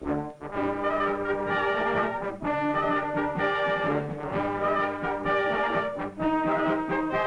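Brass band music, with held chords that change about every second.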